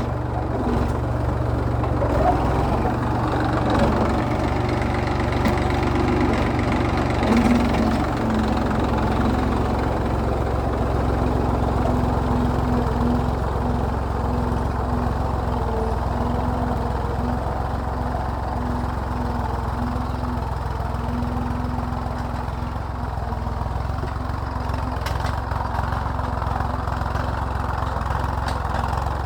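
Massey Ferguson tractor's diesel engine running steadily under load, pulling a plough through the soil.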